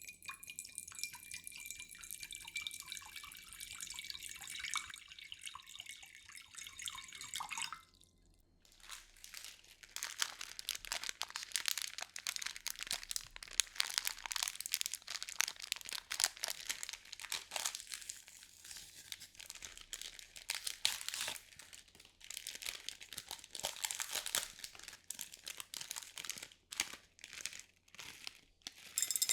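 Close-miked crackling and crinkling from handled ASMR trigger objects, dense and fine-grained. It stops briefly about eight seconds in, then resumes busier, with many sharp ticks.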